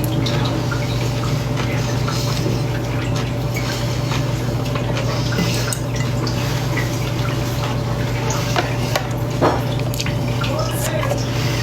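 Eating salad up close: wet chewing and small clicks of a fork against the bowl, over a steady low hum.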